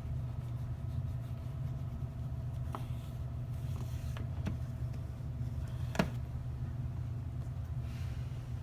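A steady low mechanical hum with a faint steady tone over it, and a few light clicks, the sharpest about six seconds in.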